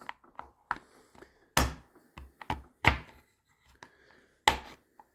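Irregular clicks and knocks, three louder ones about a second and a half apart, as a metal file is forced and angled through a narrow slot cut in a leather case.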